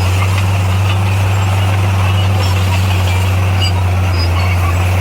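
Heavy earthmoving machine's diesel engine running steadily, a low, even drone that holds its pitch throughout.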